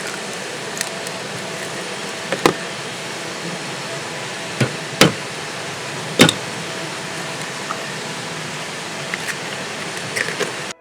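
Steady background noise with scattered sharp knocks and clicks, about seven of them, the loudest around five and six seconds in.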